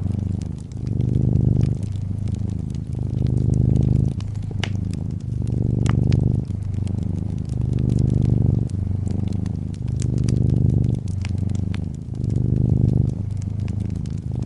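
Domestic cat purring, the low rumble swelling and easing in a steady rhythm with each breath, about a cycle every two seconds. Fireplace crackling over it with scattered sharp pops.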